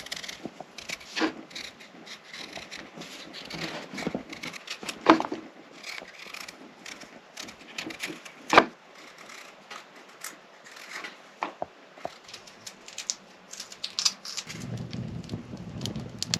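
A run of irregular small clicks, taps and crackles, with two sharper knocks about five and eight and a half seconds in.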